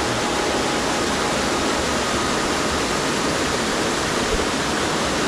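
Lower Race Brook Falls: water pouring down a rocky cascade in a loud, even rush.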